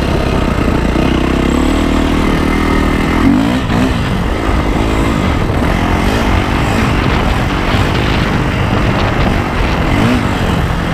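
Yamaha YZ450F's single-cylinder four-stroke engine running hard while riding, its pitch rising and falling several times as the throttle is opened and closed, with a sharp rev about three seconds in.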